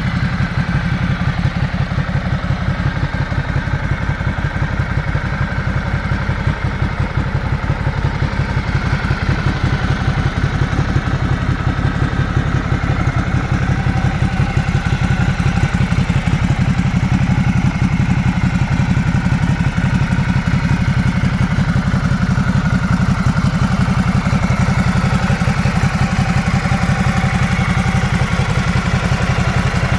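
Motorcycle engine idling steadily, a fast, even low pulsing that grows a little louder about halfway through.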